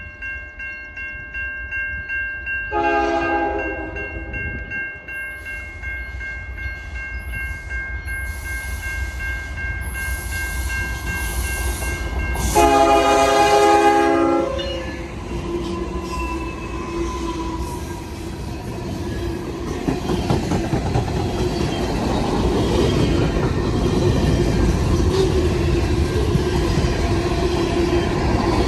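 Nathan K5HL air horn on a CN freight locomotive sounds two blasts: a short one about three seconds in and a longer one around thirteen seconds, over the steady ringing of a grade-crossing bell. The freight train then rumbles past with wheel clatter, getting louder toward the end.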